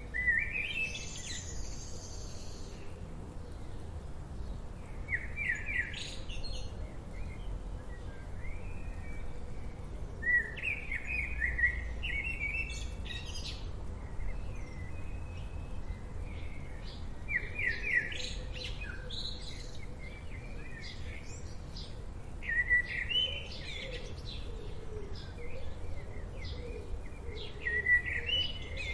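Birds singing: a short, high chirping phrase repeated about every five seconds, with fainter chirps between, over a low steady background rumble.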